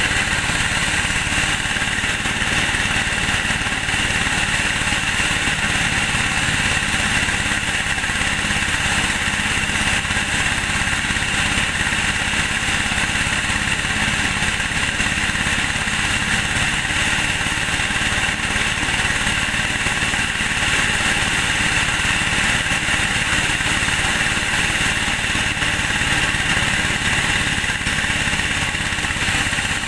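Engine-driven corn sheller running steadily, a loud continuous machine noise with no pauses.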